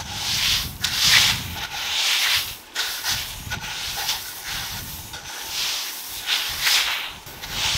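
Repeated rasping strokes, about one a second: something rough being rubbed or scraped.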